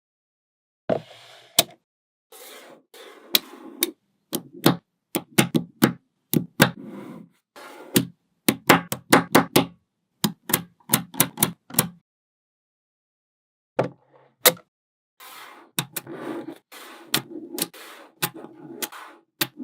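Small magnetic balls clicking and snapping together in quick, irregular runs of sharp clicks, with short rattling stretches as the balls are rolled and pressed into place. There is a silent gap of about two seconds a little past the middle.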